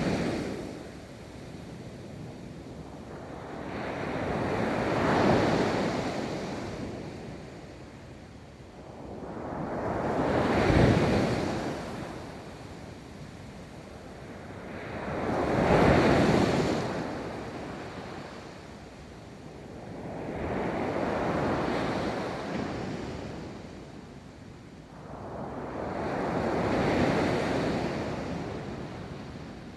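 Ocean waves rolling in and breaking on a beach, each one swelling up and washing away, about one every five to six seconds.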